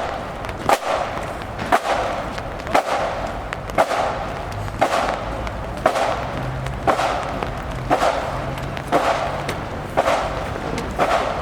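A flute band's drum beating a steady time of about one stroke a second, each sharp stroke followed by a short ring.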